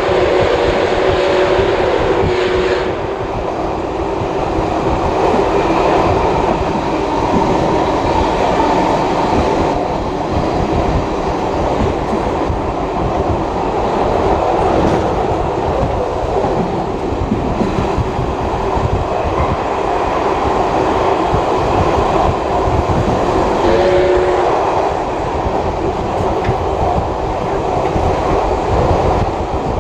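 Heritage passenger carriage running at speed behind steam locomotive 5917, with steady wheel-on-rail rumble and clickety-clack. A short two-note tone sounds near the start and again about three-quarters of the way through.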